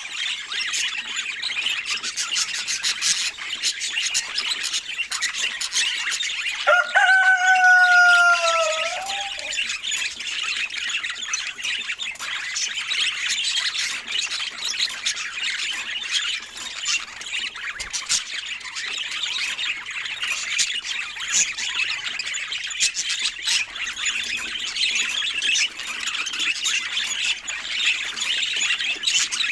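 A flock of budgerigars chattering and twittering steadily, with many short clicks. About seven seconds in, a louder, pitched call lasting about two and a half seconds cuts across the chatter, falling slightly in pitch.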